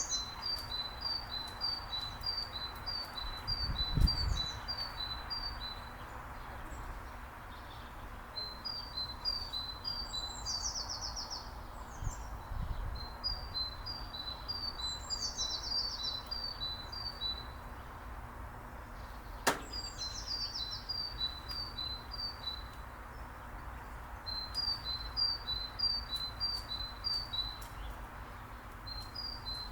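A songbird singing the same phrase again and again. Each phrase is a short buzzy falling note followed by a quick run of about eight to ten high repeated notes, and the phrases come every few seconds. There is a low thump about four seconds in and a single sharp click near the middle.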